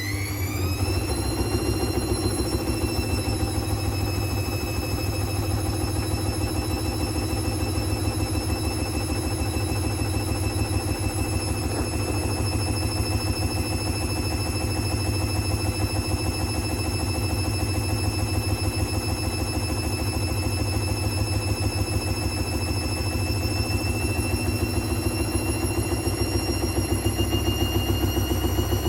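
Hoover washing machine on a high-speed spin: the motor's whine climbs in pitch during the first second, then holds a steady high pitch that edges up slightly near the end, over a fast, even rumble from the spinning drum.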